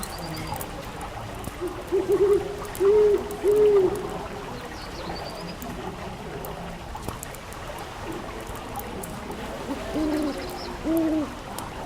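An owl hooting: a quick stuttered group of low hoots followed by two longer ones a couple of seconds in, then two more hoots near the end. Under them runs a steady hiss with fine, scattered crackles, typical of a fireplace fire.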